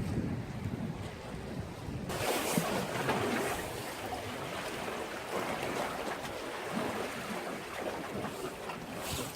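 Sea waves washing and breaking against a breakwater, with wind buffeting the microphone. About two seconds in, the surf suddenly gets much fuller and louder.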